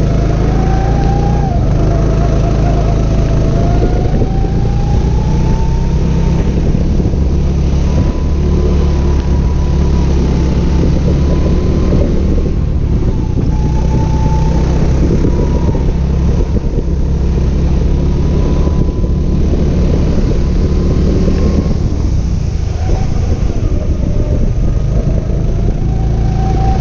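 Go-kart engine heard from on board, its pitch rising as it accelerates and dropping as it lifts off, several times over, under a loud steady low rumble.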